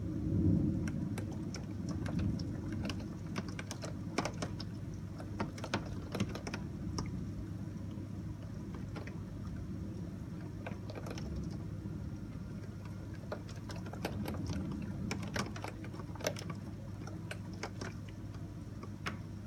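Heavy rain during a thunderstorm: a steady wash of rain with irregular sharp drops tapping on window glass, and a low rumble that fades over the first couple of seconds.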